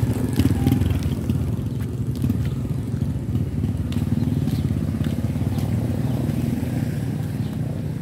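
Motorcycle engine of a tricycle running with a steady low drone that grows slightly fainter toward the end.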